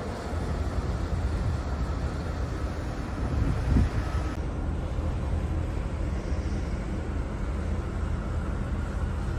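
Steady low rumble of a cruise ship under way, with wind noise on the microphone.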